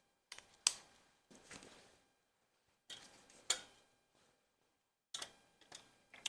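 Hand tools clinking and clicking against metal in about five short bursts, each dying away quickly, as a wrench or socket is worked on an engine fastener.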